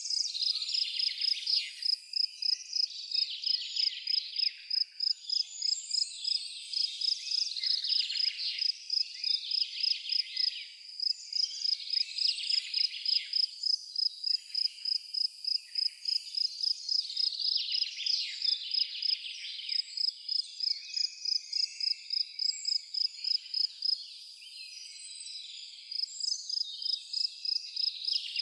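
A cricket chirps steadily in a high, even pulse a few times a second, pausing briefly near the end. Birds sing varied, sweeping songs over it.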